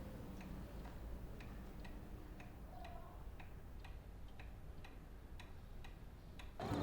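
Clock ticking steadily and faintly, about two ticks a second.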